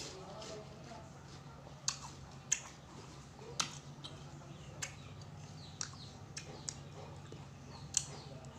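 Close-miked mouth sounds of eating: irregular sharp clicks and smacks, about nine of them, over a faint steady low hum.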